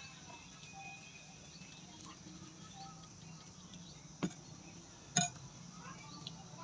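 Eating sounds: quiet chewing of boiled shrimp and raw vegetables, with two sharp crunches about four and five seconds in.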